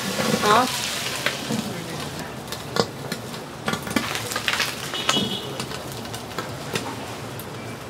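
Pan-fried pork buns (shengjian bao) sizzling in a large shallow frying pan, a steady frying hiss. Scattered knocks and clatter come from the wooden pan lid being handled.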